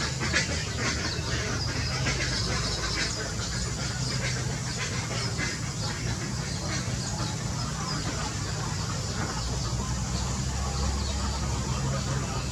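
Birds calling and chirping in a busy, overlapping chorus over a steady low rumble.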